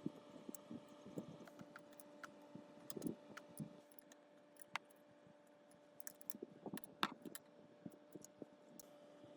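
Scattered light clicks and taps of hand tools and small metal parts being handled, the sharpest about 7 seconds in, over a faint steady hum.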